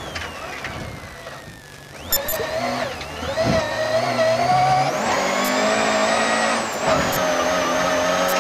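Volvo 240 rally car's engine heard from inside the cabin: revs falling off for the first two seconds, then rising as it accelerates hard from about two seconds in and staying high, with a short dip in revs near the end.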